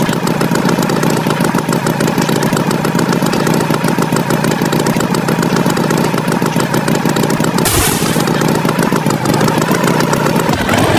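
Tractor engine sound effect running steadily with a fast, even chugging, with a short burst of hiss about eight seconds in.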